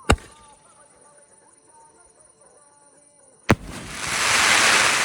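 A 3.5-inch aerial fireworks repeater cake firing. A sharp bang comes just after the start, and a second bang about three and a half seconds in is followed by a loud hiss that swells and fades over the next two seconds.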